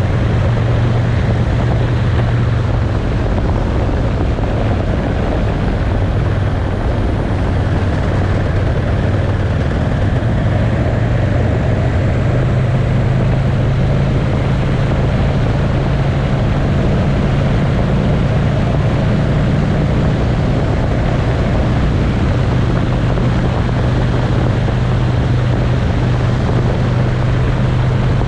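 Motorcycle engine running steadily at road speed, its low hum rising slightly in pitch about ten seconds in, over a constant rush of wind and road noise.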